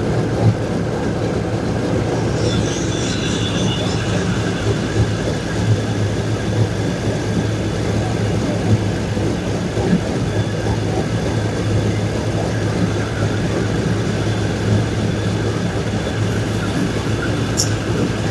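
2002 Chevrolet Silverado pickup engine idling steadily, with an exhaust leak around a V-band clamp that is not seated all the way around.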